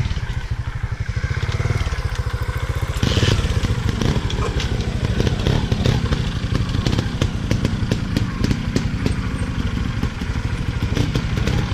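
Motorcycle engine running steadily with an even low pulsing, a little louder about three seconds in.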